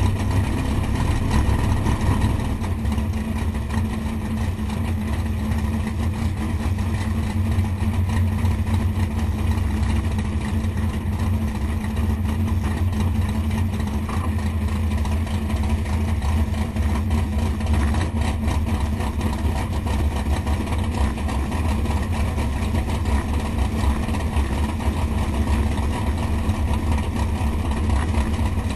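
468 cubic-inch big-block Chevy V8 idling steadily, its low rumble holding level with no revving.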